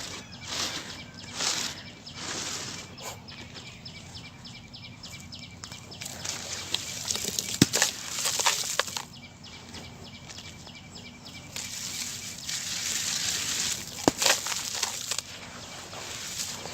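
Hardened sand-cement being crushed and crumbling, a grainy crunching rustle in bursts, with a sharp crack about halfway through and another near the end.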